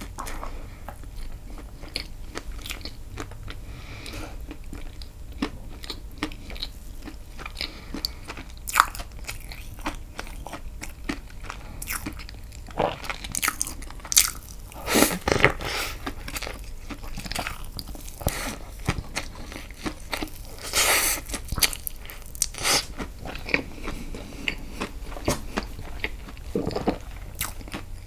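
A person biting and chewing castella sponge cake dipped in milk: a steady run of short, wet mouth clicks and smacks, with louder bursts about halfway through and again about three-quarters through.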